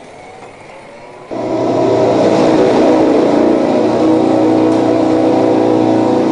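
A racing motorcycle engine starts abruptly about a second in and then runs loud at a steady, high pitch.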